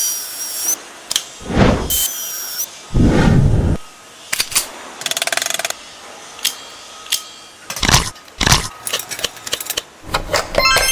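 Workshop tool handling: a series of separate knocks and clicks, with a brief fast rattle about five seconds in and a flurry of short high tones near the end.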